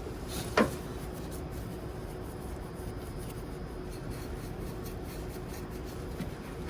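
Paintbrush bristles scrubbing and rubbing over engine-bay parts to work in a sprayed cleaning chemical. About half a second in there is one sharp, loud sound that falls quickly in pitch, and a faint steady hum runs underneath.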